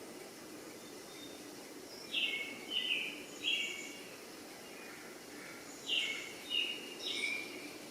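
A bird calling: two sets of three short chirps, each falling in pitch, about two seconds and six seconds in, over a steady low background noise.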